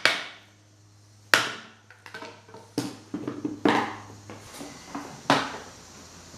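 Tools and metal motor parts being knocked and set down on a workbench: six or seven separate sharp clunks with short ringing tails, the loudest about a second in, some quick taps around the middle, and a low steady hum under the first part.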